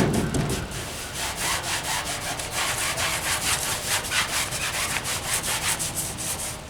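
Quick, even back-and-forth rubbing strokes on a surface, several a second, stopping just before the end.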